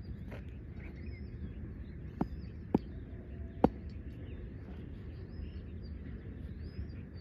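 Small birds chirping again and again over a steady low rumble, with three sharp knocks about two, nearly three, and three and a half seconds in, the last the loudest.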